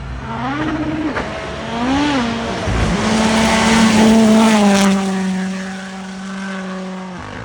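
WRC rally car's turbocharged engine passing at speed. The revs rise and fall twice, then hold high and slowly sink as the car goes by, loudest about four seconds in with a hiss of tyres and gravel, before the note drops away sharply near the end as the driver lifts.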